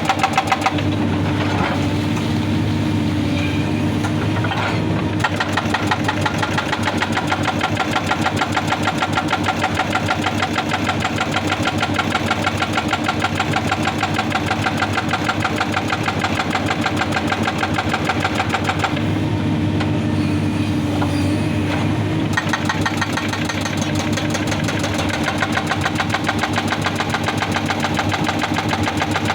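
Excavator-mounted hydraulic rock breaker hammering rock in rapid, evenly repeated blows over the excavator's running engine. The hammering drops away briefly twice, about a second in and near twenty seconds in, leaving mostly the engine.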